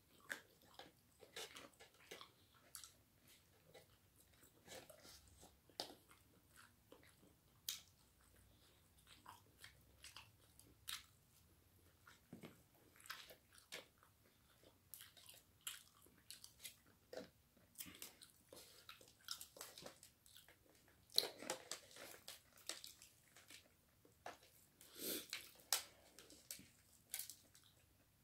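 Close-up biting and chewing of crispy breaded chicken: scattered crunches and small clicks, with louder crunches about 21 and 25 seconds in.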